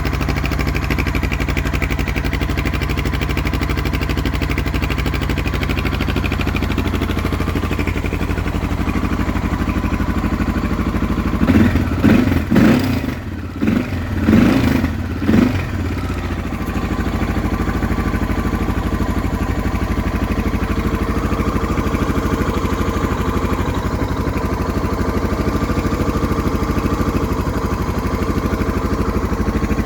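Suzuki XF650 Freewind's single-cylinder four-stroke engine idling through an aftermarket Dominator exhaust, revved in several quick blips about a third of the way in, then settling back to a steady idle.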